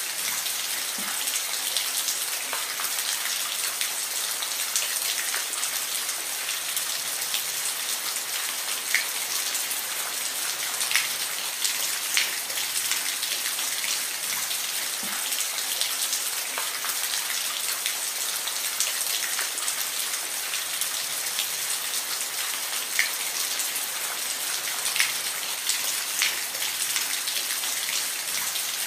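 Steady rain falling, an even hiss with scattered close drop hits.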